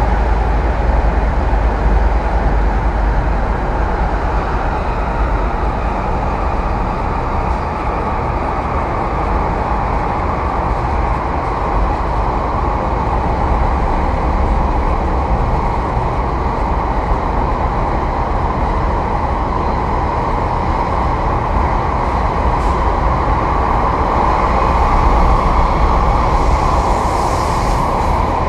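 Passenger-cabin sound of an MTR East Rail Line R-train electric multiple unit running at speed: a steady, loud rumble and roar of wheels on rail. A brief hiss comes in near the end.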